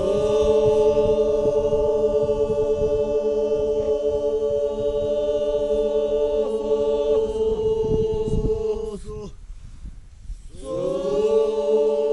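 Chanting voices holding one long drawn-out note for about nine seconds, then breaking off and starting the same held chant again near the end.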